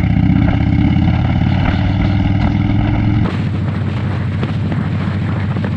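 Harley-Davidson V-twin motorcycle engine running under way, its exhaust pulsing in a fast, even beat at steady revs. About three seconds in the engine note changes suddenly, its low beat weakening and a hiss coming up.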